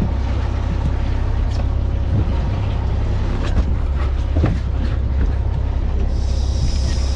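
Fishing boat's engine running steadily, a continuous low rumble, with a few light knocks on deck.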